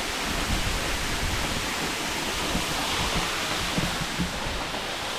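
Waterfall rushing steadily, a dense even hiss of falling water, with some low fluttering underneath.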